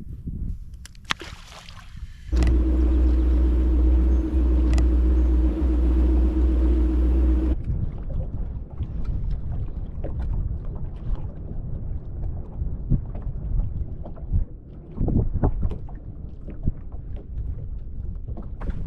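Boat motor running steadily for about five seconds, starting and stopping abruptly, then rougher wind and water noise with scattered knocks.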